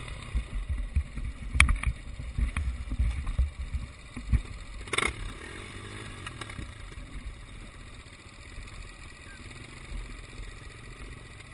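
Motocross motorcycle engines running some way off, a faint wavering drone under low rumble and buffeting on the microphone, with two sharp knocks, one about a second and a half in and one about five seconds in.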